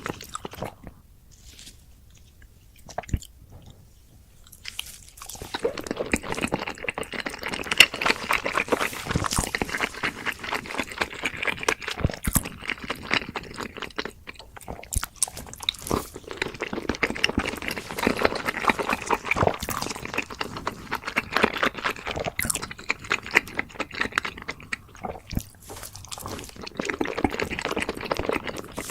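Close-miked chewing and crunching of food, a dense crackly run of bites and chews that starts about five seconds in after a quiet stretch.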